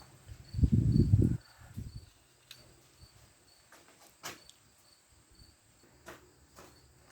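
A burst of clunking and scraping about a second in as the measuring setup is shifted on the lathe bed, then a few sharp clicks. Under it a cricket chirps steadily, about twice a second.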